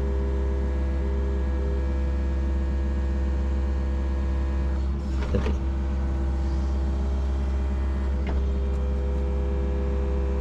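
Yanmar SV40 mini excavator's diesel engine running steadily under digging load, a deep hum with several steady held tones over it, with a brief louder scrape or crack about five seconds in and a smaller one about eight seconds in.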